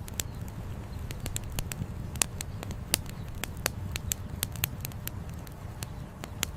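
Campfire with burning firewood crackling: sharp, irregular pops, several a second, over a steady low rumble.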